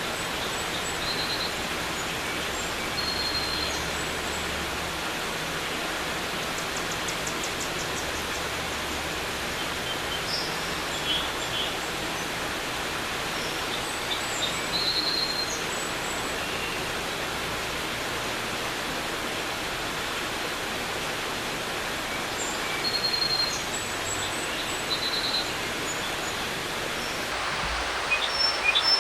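Creek water running in a steady hiss, like static on an old TV set, with short bird chirps here and there over it and a few louder ones near the end.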